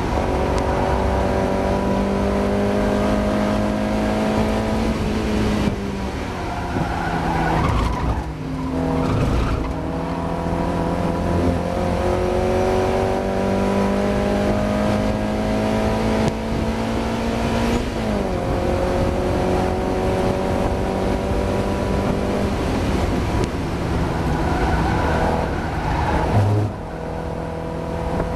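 Mazda MX-5 race car engine under load. Its pitch climbs slowly and then drops sharply at each gear change or lift, four times over the stretch. The engine is running with a misfire.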